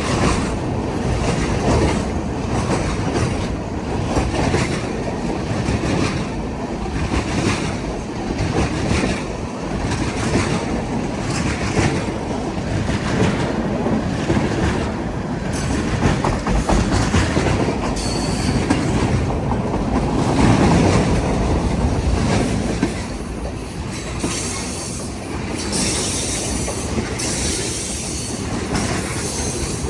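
Freight cars of a long manifest train rolling past, wheels clicking steadily over the rail joints, with wheel squeal at times, mostly near the end.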